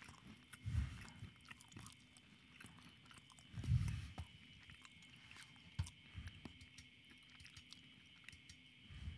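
Faint mouth noises close to a microphone: chewing and small wet clicks, with two soft low puffs, about a second in and near four seconds in.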